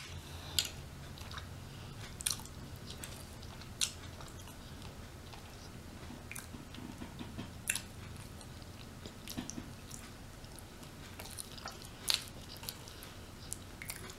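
A person chewing food, with sharp wet mouth clicks and smacks every few seconds over a faint steady low hum.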